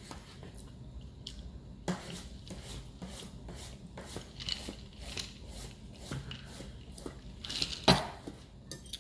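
Cutlery clinking and scraping against a plate during a meal, in short irregular clicks, with one louder clack near the end.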